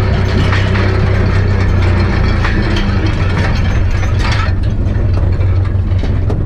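Ursus C-360 tractor's turbocharged four-cylinder diesel engine running steadily, with a metallic clatter of rattles over it that thins out about four and a half seconds in.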